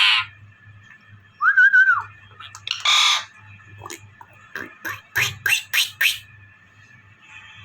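Pet green parrot calling: a short whistled note, then a harsh squawk, then a quick run of short, sharp chirps.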